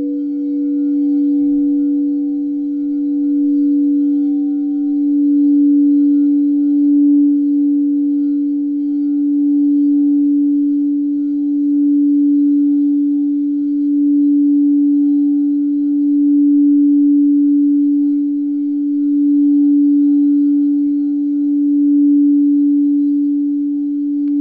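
Crystal singing bowl sustaining one steady, low ringing tone with fainter higher overtones, its loudness swelling and easing every two to three seconds.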